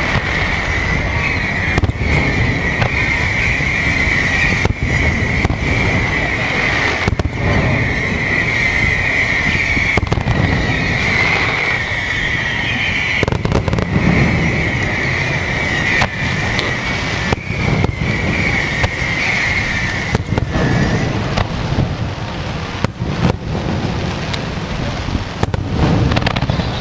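Aerial fireworks display: shells bursting with repeated low booms and rumble. A steady high-pitched whine runs through it and stops about 20 seconds in, and falling whistles are heard about 11 seconds in and again near the end. The sound cuts out for an instant several times.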